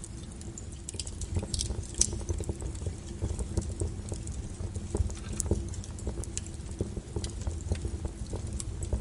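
Wood fire burning, with irregular crackles and sharp snaps of burning firewood over a low steady rumble of the flames; the loudest pop comes about two seconds in.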